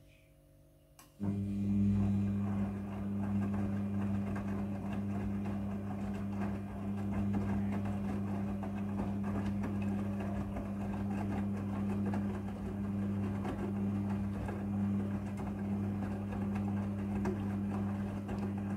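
Midea front-loading washing machine running: starts abruptly about a second in with a steady low motor hum and a rough swishing noise above it.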